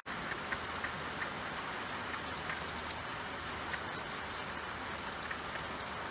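Steady rain falling, an even hiss with scattered individual drops ticking. It cuts out for an instant right at the start.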